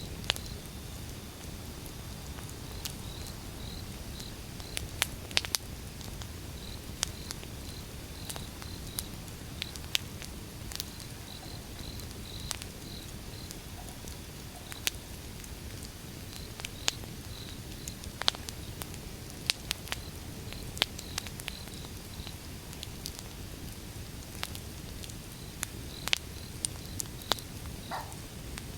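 Wood fire burning: a steady low rumble with sharp crackles and pops scattered irregularly throughout. A faint high chirping repeats in the background, and a brief whistling squeak sounds near the end.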